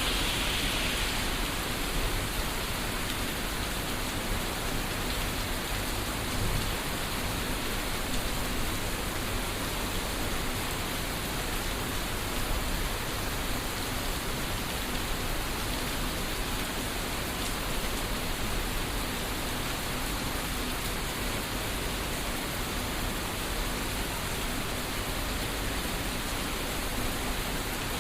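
Steady rain falling in a storm, an even hiss of water that does not let up.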